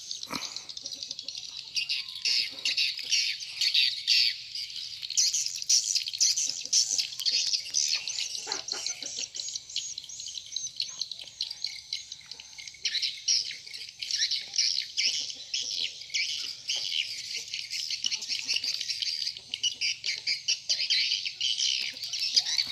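Dense, continuous twittering of many swiftlets (walet, edible-nest swiftlets) calling at once: high chirps that overlap without a break.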